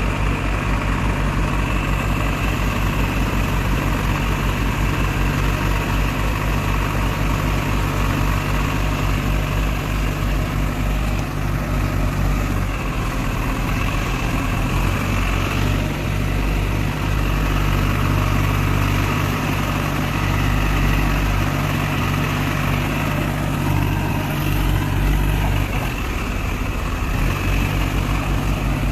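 Diesel tractor engine running steadily, its note shifting slightly about twelve seconds in and again near the end.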